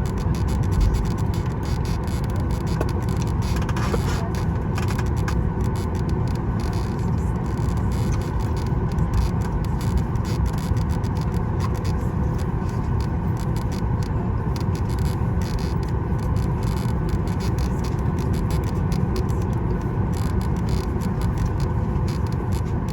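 Steady cabin noise inside a Boeing 737 MAX 9 on the ground, its CFM LEAP-1B engines running at idle: an even low rumble with a faint hum over it.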